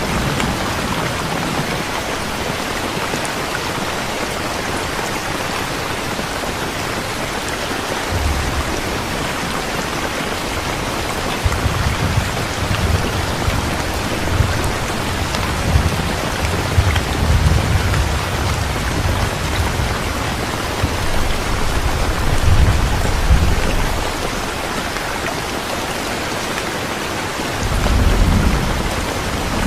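Steady heavy rain falling, with low rolling thunder rumbling in from about a quarter of the way in, running through the middle and swelling again near the end.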